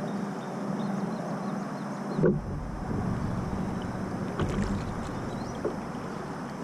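Handling noise on a fishing kayak: a sharp knock about two seconds in, then a low rumble with a few lighter knocks.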